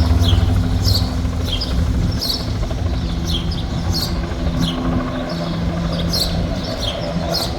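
Bell 206 helicopter's turbine and rotor running, a steady low drone with a held hum, heaviest in the first second. Small birds chirp repeatedly over it, short high calls every half second or so.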